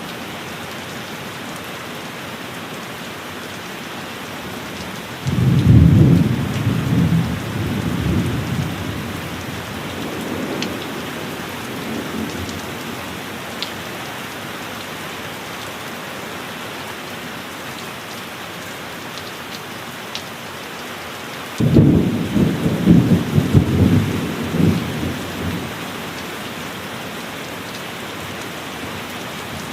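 Steady heavy rain, with two claps of thunder, one about five seconds in and one about twenty-two seconds in, each a sudden crackling rumble that dies away over a few seconds.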